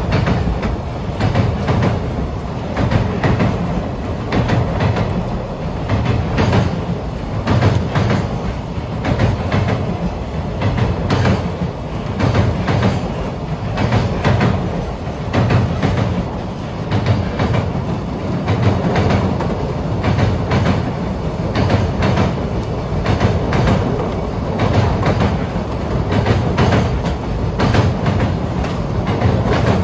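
Freight train of container flat wagons passing close at speed, its wheels clattering over the rail joints in a steady, repeating clickety-clack over a continuous rumble, on wet rails in the rain.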